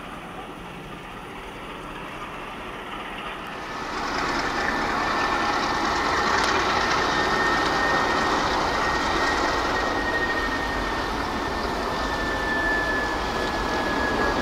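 MLW diesel locomotives running, growing much louder about four seconds in. A thin, steady high whine sinks slightly in pitch through the rest of it.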